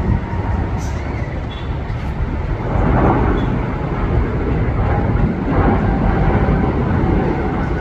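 Jet engines of a departing Boeing 787 Dreamliner at takeoff thrust: a steady deep rumble that grows louder about three seconds in.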